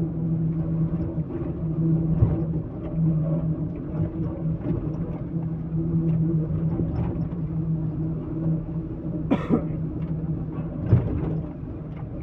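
Heavy machine's engine running at a steady pitch, with a few clunks and knocks, one loud sharp one about three quarters of the way in.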